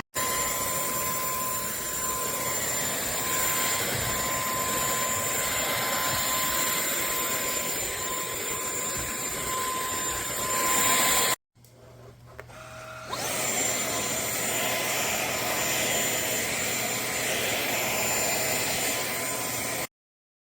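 KCLASO cordless stick vacuum running with a steady whine. About 11 seconds in it stops, then spins back up over a second or so and runs again before cutting off suddenly near the end.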